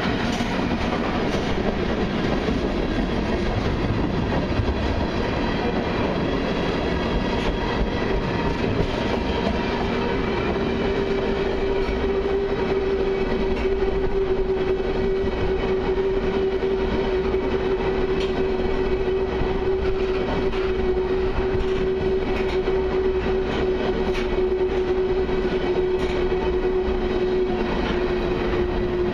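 Freight train of tank cars and covered hoppers rolling slowly past, a steady rumble with wheels clicking over the rail joints. A steady whining tone joins about ten seconds in and sinks slightly in pitch.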